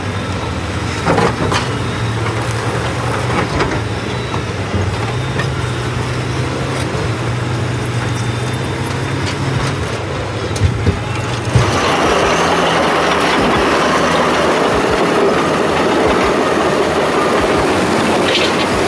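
Heavy machinery running: a steady low engine hum with scattered knocks and clanks. About eleven seconds in it changes abruptly to a louder, even rushing noise.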